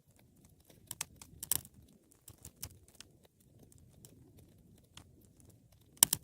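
Wood fire crackling: scattered sharp pops and snaps over a faint low noise of the flames, with a cluster of pops about a second and a half in and the loudest double pop near the end.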